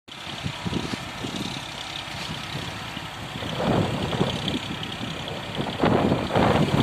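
Excavator's diesel engine running with irregular knocking and clatter, getting louder about halfway in and again near the end.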